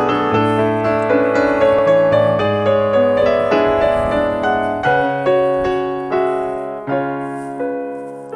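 Background piano music: notes and chords struck about twice a second at first, then more sparsely, about one a second, in the second half, each note ringing and fading.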